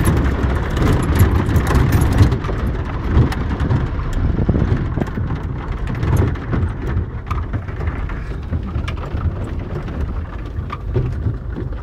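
Suzuki Samurai off-roader driving over a rough dirt track, heard inside the cab: a steady low engine and tyre rumble with frequent knocks and rattles from the body jolting over the bumps.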